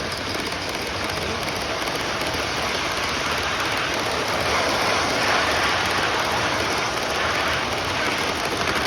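Model trains running on their layout tracks, a steady, unbroken rolling noise.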